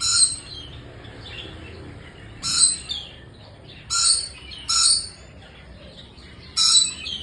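A bird gives five short, loud calls, spaced one to two seconds apart.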